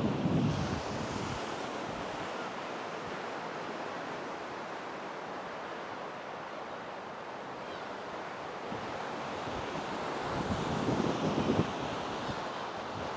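Wind-whipped sea surf washing onto the shore in strong wind, with wind buffeting the microphone. The sound is a steady rushing noise with louder surges right at the start and again around ten to eleven seconds in.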